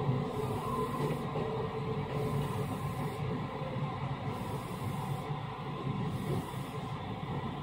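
Steady running noise of an Osaka Metro 66 series refurbished electric commuter train, heard from inside the car: a constant rumble of wheels and running gear with a few faint steady hums.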